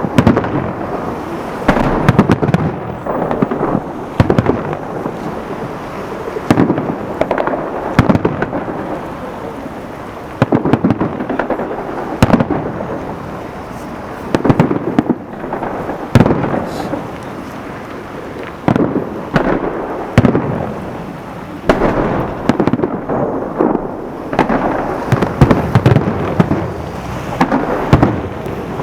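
Fireworks salute: loud booming bursts every second or two, each trailing off in a rolling, echoing rumble.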